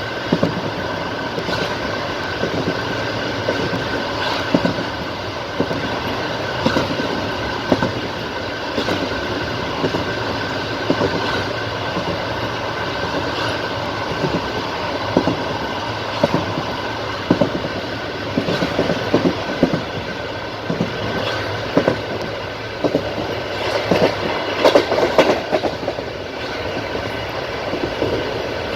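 Passenger train wheels clattering over rail joints in the clickety-clack rhythm, a group of knocks about every two seconds over the steady rumble of the moving carriage. The knocks come thicker for a couple of seconds near the end.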